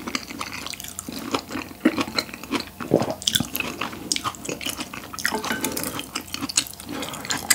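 Close-miked wet chewing and lip-smacking while eating saucy tteokbokki with grilled beef brisket, a steady run of small sticky clicks and smacks.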